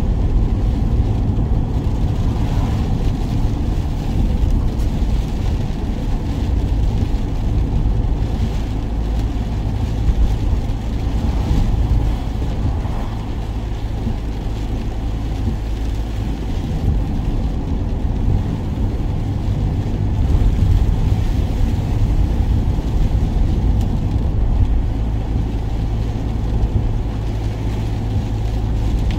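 Work van driving: steady engine hum and road rumble.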